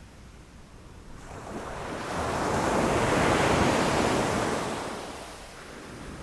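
A single ocean wave breaking against rocks: the surf swells up about a second in, is loudest midway, and dies back to a low wash near the end.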